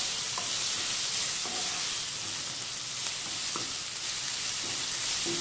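Sliced onions, green chillies and ginger-garlic paste frying in oil in a non-stick pan, giving a steady sizzle. A wooden spatula stirs and scrapes them now and then.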